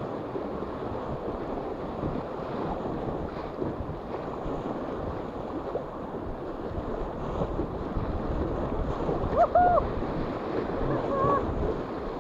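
River water rushing steadily, with wind on the microphone; a short high call rises and falls about nine and a half seconds in.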